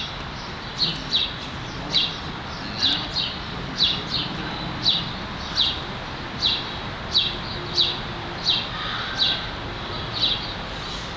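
A small bird chirping over and over: short, sharp, falling notes, often in pairs, about one to two a second, over a steady background hum.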